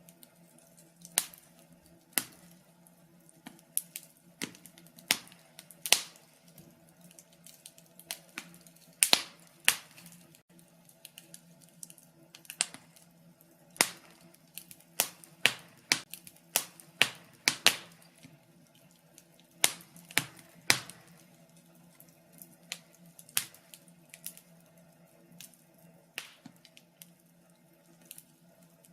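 Wood fire in a fireplace crackling: sharp, irregular snaps and pops of burning logs, a few a second at uneven intervals, over a faint steady low murmur of the flames.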